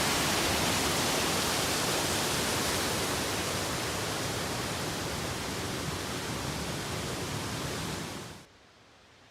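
Rushing water of a mountain brook's cascades, a steady rush that slowly grows fainter, then cuts off abruptly about eight seconds in.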